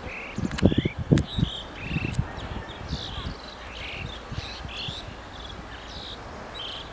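Small birds chirping in short, scattered high notes, with a few low thumps and clicks between about half a second and two seconds in.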